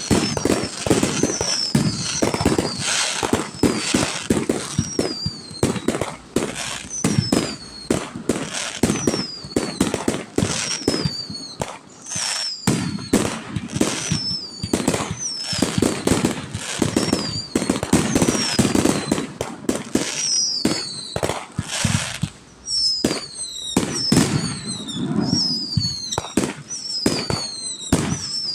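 Fireworks display: a rapid, dense barrage of bangs and crackles with low booming after them, and many short, high whistles that fall in pitch.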